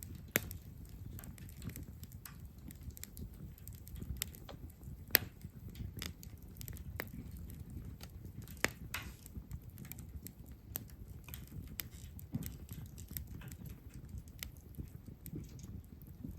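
Wood fire crackling, with irregular sharp pops over a low, steady rumble of flame.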